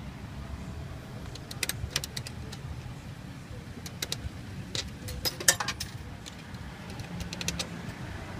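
Quarters clinking and dropping one by one into a car wash coin slot, a series of sharp metallic clicks, over a car engine idling steadily.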